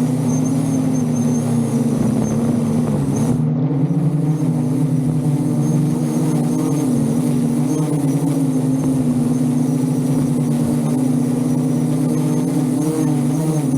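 Propellers of a VTOL drone running steadily with a loud hum whose pitch wavers slightly up and down.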